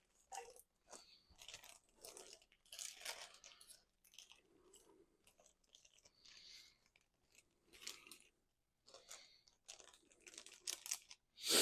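Crinkling and crunching of packaging handled by hand, in short irregular rustles, with a sharper burst near the end.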